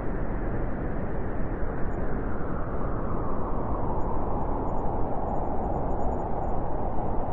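Strong wind blowing steadily through a snowy forest in a blizzard: a dense, even rushing noise with a deep low rumble.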